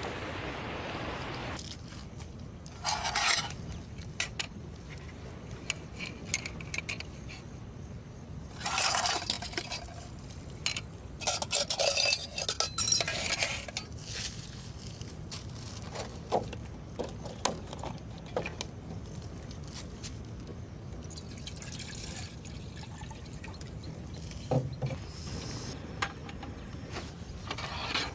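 Camp cooking sounds: several short spells of liquid being poured or splashed, with light clinks and knocks of cookware between them, over a steady low background.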